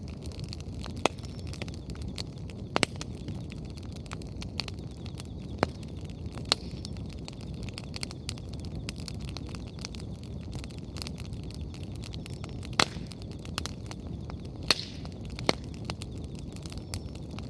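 Firewood bonfire burning: a steady low rush of flame with frequent irregular crackles and sharp pops from the burning wood, a few pops standing out louder than the rest.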